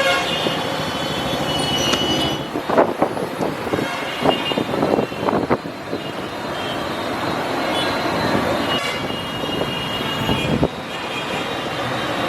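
Busy road traffic with several short vehicle horn toots, and a run of sharp knocks a few seconds in.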